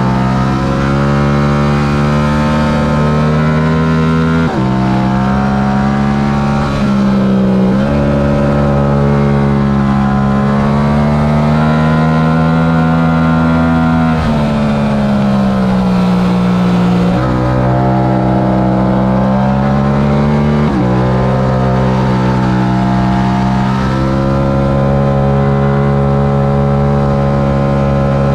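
Yamaha R7's stock 689 cc parallel-twin engine at full racing pace, its revs climbing and falling, with several abrupt changes in pitch as gears are shifted.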